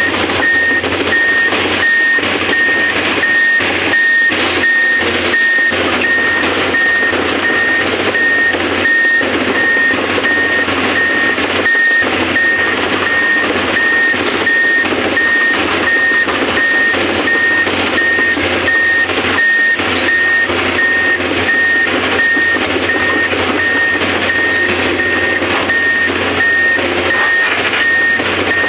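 Excavator's travel warning alarm beeping steadily, a little over one beep a second, over continuous machine noise.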